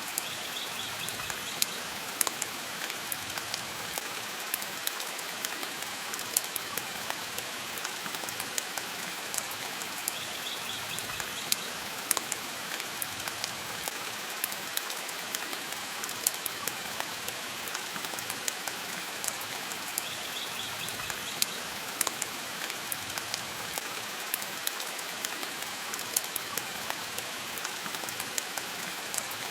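Steady rain with a wood fire crackling in a fireplace, frequent irregular sharp pops over the even hiss of the rain.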